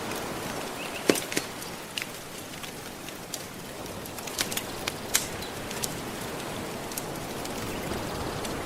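Soft ocean waves washing steadily, with a wood fire crackling over them in sharp, irregular pops; the loudest pop comes about a second in.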